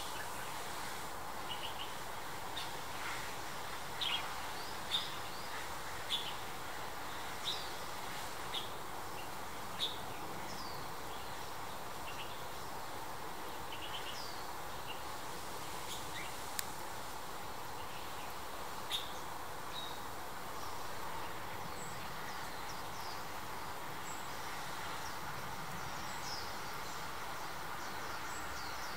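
Small songbird giving short, high chirping call notes, roughly one a second for the first ten seconds or so, then fewer and scattered, over a steady background hiss.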